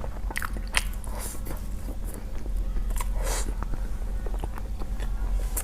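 Close-miked chewing of noodles: wet mouth clicks and smacks, with a short slurp a little past three seconds in. A steady low hum runs underneath.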